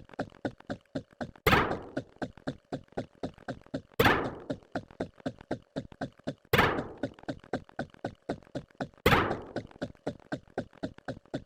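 A repeating sound-effect pattern: four loud thunks, one about every two and a half seconds, each with a short ringing tail. Between them runs a steady patter of lighter, quicker ticks, about four a second.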